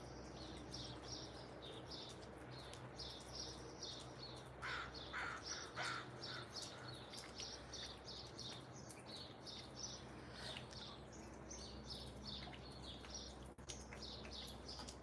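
Faint chirping of small backyard birds: short high chirps repeating several times a second. Around five seconds in come about four lower, harsher calls.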